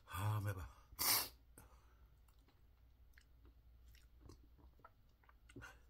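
A person eating: a short low vocal grunt, a loud breathy burst about a second in, then quiet, scattered chewing clicks and mouth noises.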